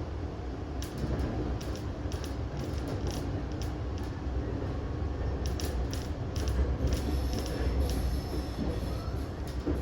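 Suburban train running along the track, heard from inside the carriage: a steady low rumble with repeated sharp clicks from the wheels and track, and a faint high wheel squeal toward the end.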